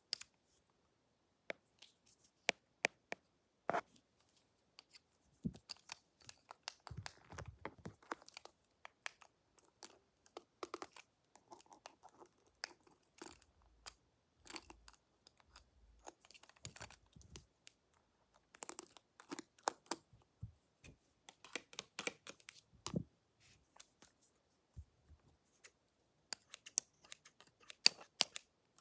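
Close-miked ASMR sounds of pretend haircut tools being handled: irregular snips, crinkly scratching and sharp little clicks in scattered clusters, the loudest click coming near the end.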